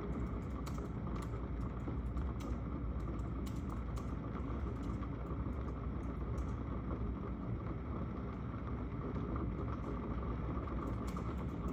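Steady low background rumble with scattered light clicks.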